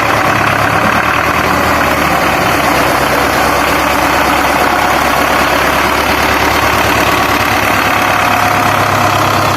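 Tractor diesel engine running steadily and loudly, with no change in pitch.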